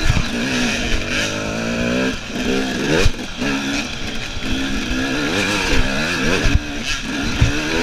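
Enduro motorcycle engine, a KTM EXC, being ridden hard, its pitch rising and falling about once a second as the throttle opens and closes. There are a few sharp knocks and a steady hiss under the engine.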